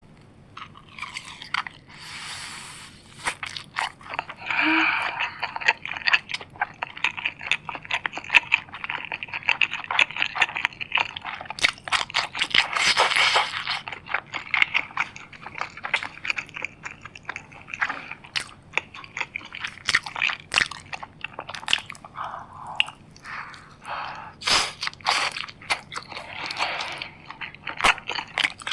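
Close-miked eating: crunchy food being bitten and chewed, with dense crackling clicks and short noisy crunches.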